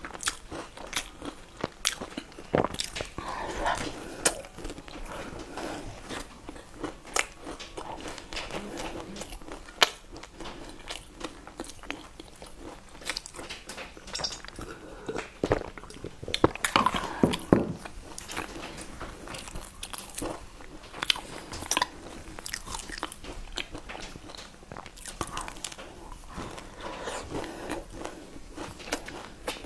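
Close-miked eating sounds: bites, crunching and wet chewing of a nut-filled mooncake dipped in yogurt, with irregular mouth clicks throughout. A few swallows from a glass partway through, where the sounds are loudest.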